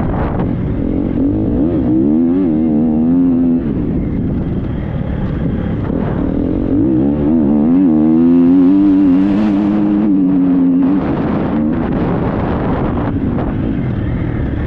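Triumph 250 motocross bike's single-cylinder four-stroke engine being ridden hard, its revs rising and falling with the throttle in two spells of wavering pitch, over steady rushing noise.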